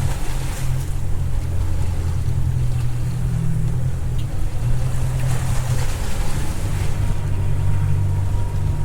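Boat engine running steadily, a low hum that shifts slightly in pitch, with wind and rough water rushing over it in surges a few times.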